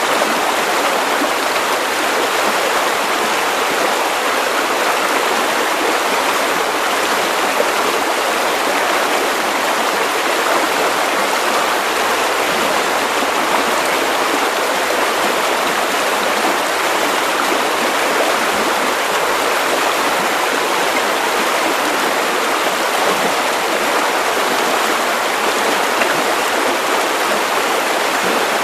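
Steady white noise for sleep: an even, unchanging hiss with little bass, heard like rushing water.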